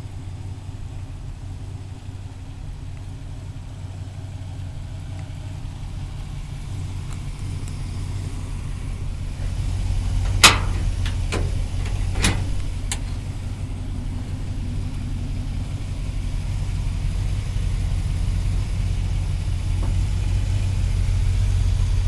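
A 350 V8 idling steadily in a 1959 Chevy Apache pickup, growing gradually louder. About halfway through comes one sharp knock, followed by a few lighter clicks.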